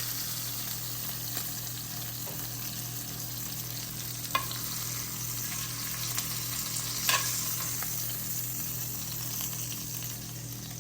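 Olive oil sizzling steadily in a hot cast iron skillet as cooked chicken breasts are lifted out, with two sharp clicks about four and seven seconds in.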